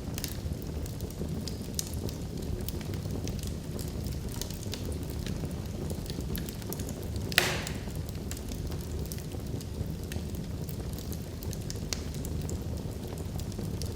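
Wood log fire burning in a fireplace: a steady low rumble of flames with scattered small crackles, and one loud pop about halfway through.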